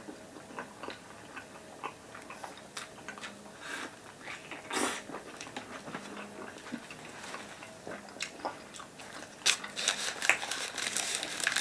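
Close-up eating sounds of a person chewing and biting into a shawarma and a raw tomato: wet mouth clicks and smacks, with a denser run of clicks near the end.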